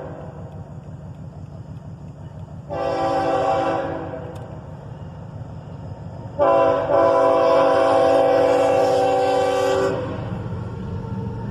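Lead GE ES44AH diesel locomotive of a CSX freight train sounding its multi-note air horn: a short blast about three seconds in, then a long blast from about six and a half to ten seconds. A steady low rumble of the passing train runs underneath.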